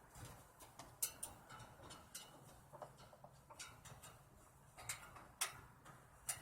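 Irregular light clicks and taps with a few sharper knocks, from hand-tool work on a condenser fan motor replacement. The loudest knocks come about a second in and twice near the end.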